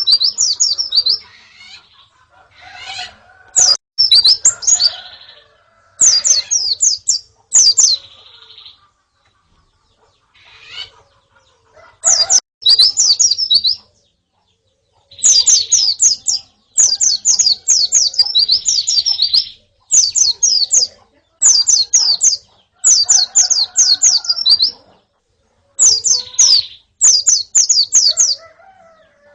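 A group of white-eyes (pleci) twittering: repeated phrases of about a second, each a rapid run of high chirps, with short gaps between them and a quieter spell about a third of the way in.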